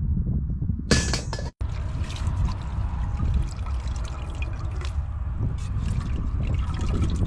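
Water trickling and splashing, as with rice noodles being handled in a basin of warm soaking water, over a steady low rumble. There is a brief dropout about one and a half seconds in.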